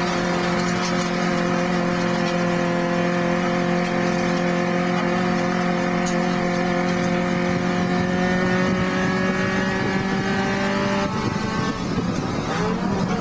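Porsche 924S race car's 2.5-litre inline-four heard from inside the car, running hard at high revs with its pitch slowly rising for about eleven seconds. Near the end the note breaks off, then the pitch drops and climbs again.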